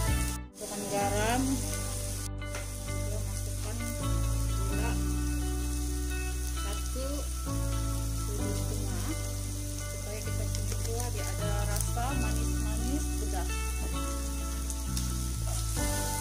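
Chili sambal paste sizzling as it fries in oil in a wok, stirred with a spatula, under background music with held chords that change every few seconds. The sound cuts out briefly about half a second in.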